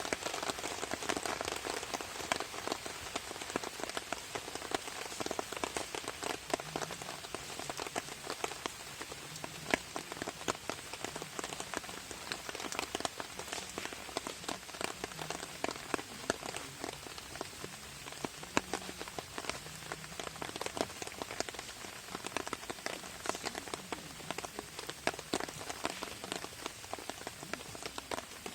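Rain falling on a camping tarp: a dense, steady patter of drops.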